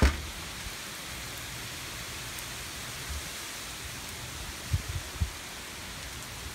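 Steady hurricane rain falling as a constant hiss. A few short low thumps break through it, a loud one at the very start and two more about five seconds in.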